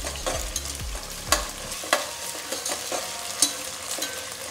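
Chopped onions and ginger-garlic paste sizzling in hot oil in a stainless steel pot while being sautéed, with a perforated steel ladle scraping and clinking against the pot at irregular moments. The sharpest clinks come about a second and a half in and again near three and a half seconds.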